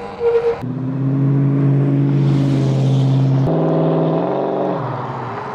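Electric e-bike motors whining at a steady pitch while riding. The pitch steps up and wavers about three and a half seconds in. A short tone sounds just before the whine starts.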